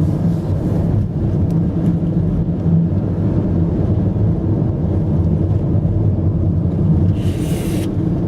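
A car driving, with the engine and road noise making a steady low rumble and a brief hiss about seven seconds in.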